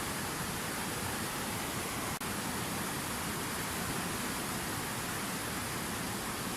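Water pouring steadily over a fountain waterfall, an even, unbroken rush of falling and splashing water, with a split-second dropout about two seconds in.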